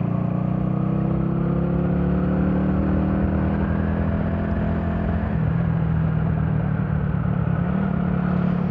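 Minsk D4 125 motorcycle's 125 cc single-cylinder four-stroke engine pulling under way, its pitch climbing steadily for about five seconds, then dropping at a gear change and holding steady.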